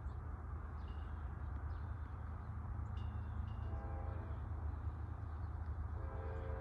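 Diesel locomotives of a Norfolk Southern freight train running with a steady low rumble. The air horn comes in faintly about halfway through and grows stronger near the end.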